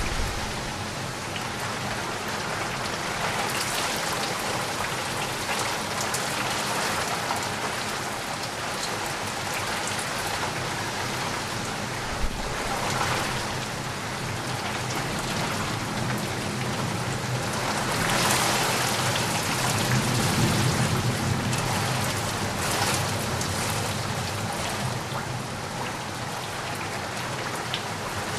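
Steady rain with drops tapping against a window. The downpour swells louder a few times, most strongly about two-thirds of the way through.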